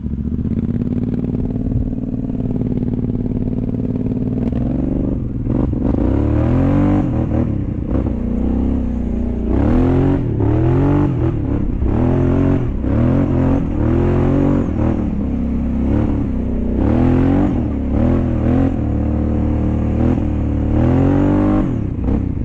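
Off-road vehicle engine running steadily, then from about five seconds in revved up and down over and over, roughly once a second, with some clatter.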